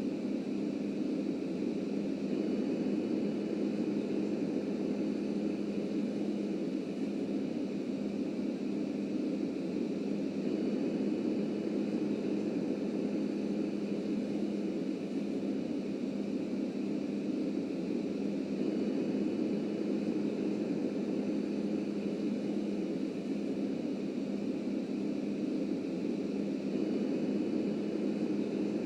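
Subway refuse train running steadily on the track: a constant rumble with a steady hum, unchanging throughout.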